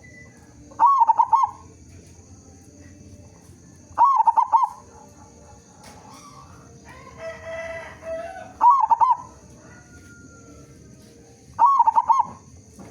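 Zebra dove cooing: four short phrases of quick, rolling notes, evenly spaced a few seconds apart. Between the second and third phrase, another bird gives a longer, lower call lasting more than a second. A faint steady high-pitched whine runs underneath.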